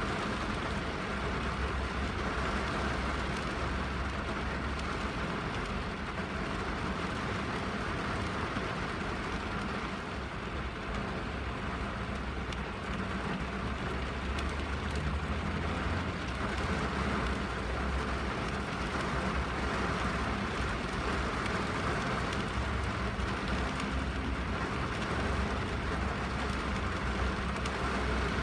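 Rain falling on a car's roof and windows, heard from inside the cabin as a steady even patter with a low rumble underneath.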